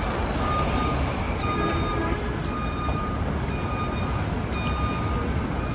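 Steady rumble of a moving vehicle, with a thin high whine that comes and goes several times.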